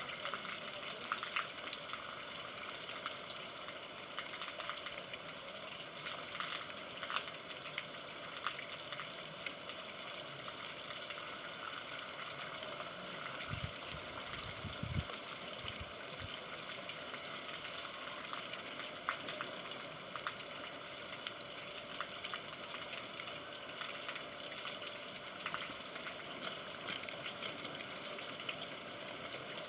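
Steady rain with a dense patter of drops, and a brief low rumble about halfway through.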